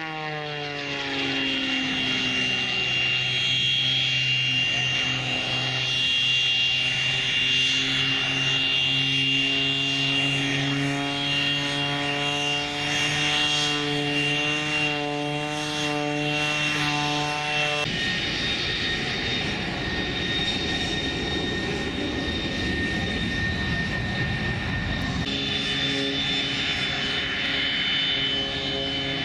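Aircraft engine running loud and steady, with a high whine over a deeper pitched drone. The pitch falls in the first second or two. The sound changes abruptly twice: a noisier, rougher stretch comes in about two-thirds of the way through and gives way to the pitched drone again near the end.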